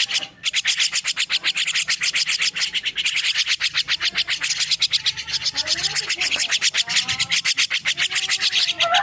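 Young jalak (starling) giving a fast raspy chatter of about nine pulses a second, with short whistled notes joining from about halfway.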